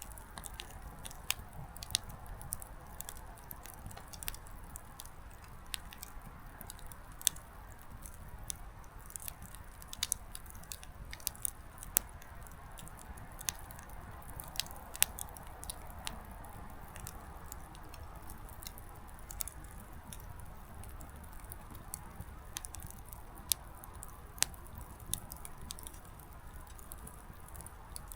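Small wood campfire burning low: the firewood crackles and pops with irregular sharp snaps, a few of them loud, over a soft steady hiss.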